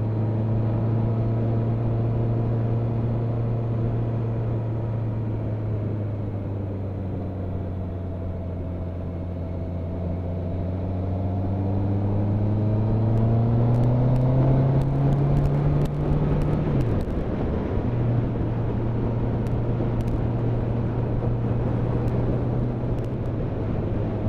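Motorcycle engine running under way with steady wind noise over it. About halfway through the revs climb as the bike accelerates, dip sharply at a gear change, and settle again at a lower, steady pitch.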